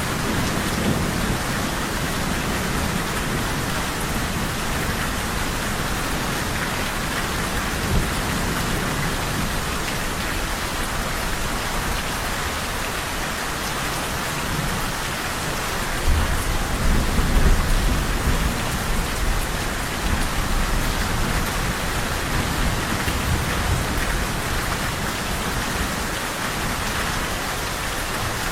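Steady rain falling as an even hiss, with a low rumble of thunder that swells about 16 seconds in and fades over a couple of seconds.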